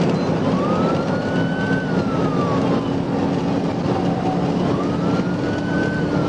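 Police car siren in a slow wail, rising and falling twice, over the loud, steady engine and road noise of the patrol car in pursuit.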